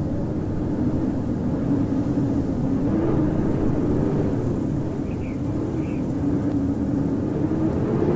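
Howling winter wind: a steady low rush with a hollow howl that slowly wavers up and down in pitch.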